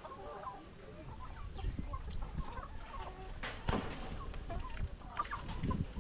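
A flock of laying hens clucking and calling in short, scattered notes, with a couple of sharp clicks about three and a half seconds in.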